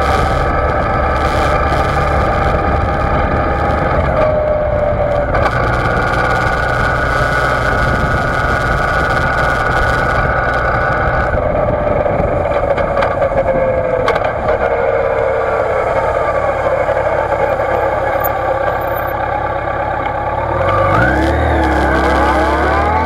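2006 Yamaha FJR1300's inline-four engine running under way, with wind and road noise, muffled by the waterproof dive case the camera sits in. The engine note falls around the middle as the bike slows, then rises again near the end as it accelerates.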